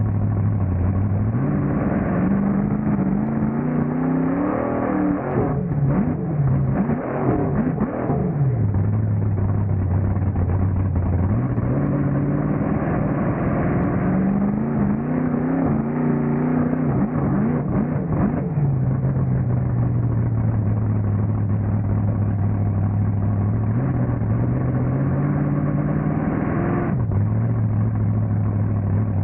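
Monster truck engine heard from inside the cab, idling and then revving up in long climbs three times, with a cluster of knocks and rattles during the first climb. It drops back to idle suddenly near the end.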